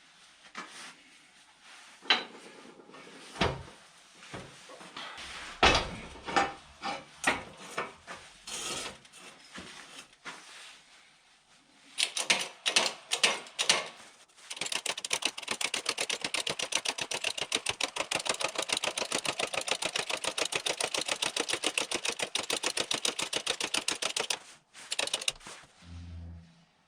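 Scattered knocks and clicks of parts or tools being handled, then about ten seconds of rapid, even clicking that stops suddenly near the end.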